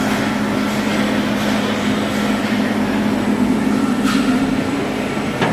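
Juaristi MDR 130 CNC horizontal boring mill running: a steady machine drone with a strong low hum under a hiss, and two brief sharp sounds near the end.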